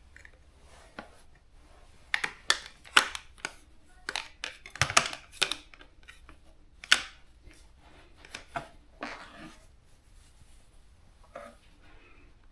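Irregular clicks and knocks of tools and parts being handled during a motorcycle teardown. They come thickest from about two to seven seconds in, then thin out to a few scattered taps.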